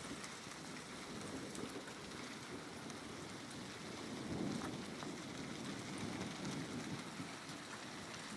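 Rain falling steadily, a dense hiss with scattered sharp drop ticks. A faint low swell rises about four seconds in.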